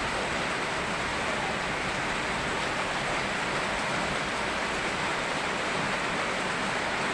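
Steady rain mixed with rushing river water: an even, unbroken hiss with no separate drops, knocks or calls standing out.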